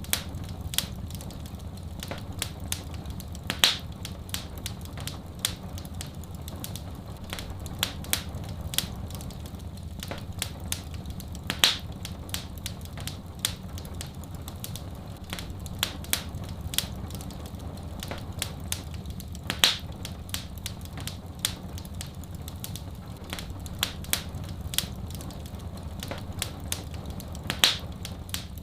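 Wood fire in a fireplace crackling: many sharp pops and snaps, with a louder pop about every eight seconds, over a steady low rumble.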